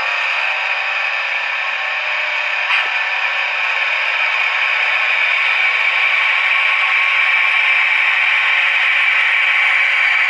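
Digital sound decoder in a Trix HO model of a DR Class 254 electric locomotive playing its running sound through the model's small speaker: a steady, thin whirring hiss that switches on suddenly, with one faint click about three seconds in.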